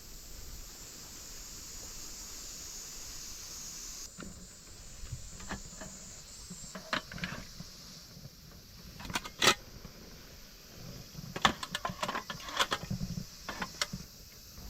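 A steady high hiss of outdoor ambience, then about four seconds in, scattered light clinks and knocks as aluminium camp tables and gear are handled. Two knocks stand out as sharper and louder, one a little past halfway and one shortly after.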